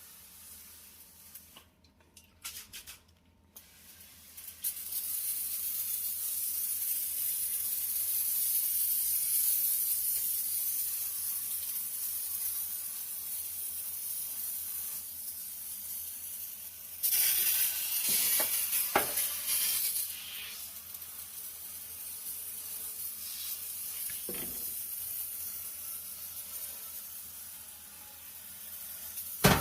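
Oven-cleaning spray hissing steadily, starting about four seconds in and slowly fading. A louder, rougher stretch with a few sharp clicks comes past the middle, and knocks sound near the end.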